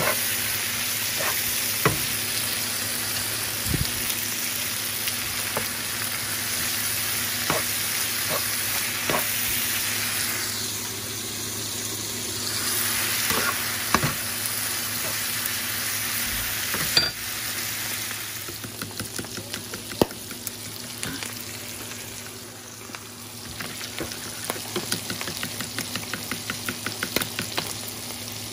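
Corn tortilla pieces, onions, tomatoes and ham sizzling as they sauté in a skillet, stirred with a utensil that knocks against the pan now and then. In the second half the sizzle eases and a fast run of light clicks takes over.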